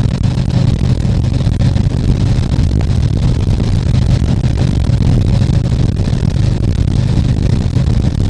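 Harley-Davidson Tri Glide Ultra's V-twin engine running steadily on the road, a constant low hum under steady wind and road noise.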